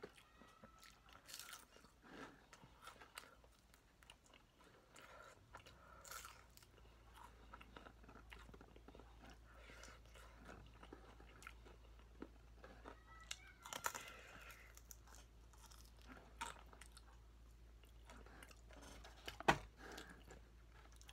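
Faint close-up chewing and crunching of fried chicken, with scattered short crunches and one sharper, louder crunch near the end.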